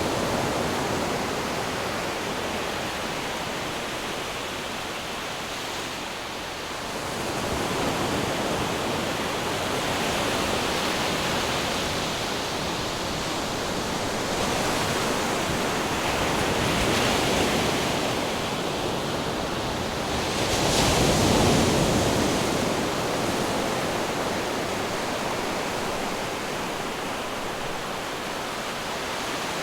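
Ocean surf: a continuous rush of waves that swells and recedes every several seconds, with the biggest surge about two-thirds of the way through.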